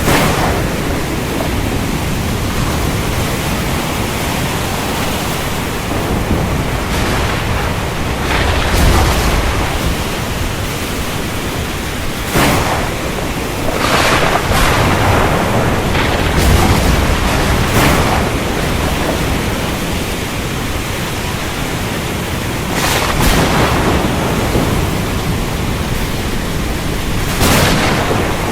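Thunderstorm: a steady rush of heavy rain and wind, with repeated gusting swells and low rolls of thunder about nine seconds in and again around sixteen seconds.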